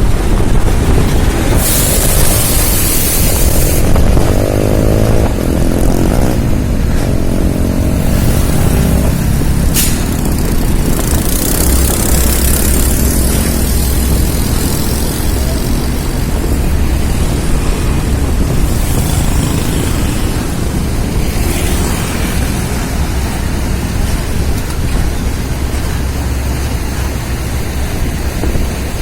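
Heavy diesel truck engine running under load, its pitch rising and falling over the first several seconds and then settling into a steady low rumble. Bursts of hissing come and go over it, and there is a single sharp click about ten seconds in.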